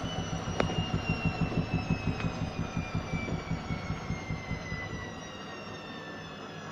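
Zanussi ZWH7148P washing machine slowing down from a spin, its motor whine falling in pitch, with a rhythmic knock about four times a second that fades out about five seconds in.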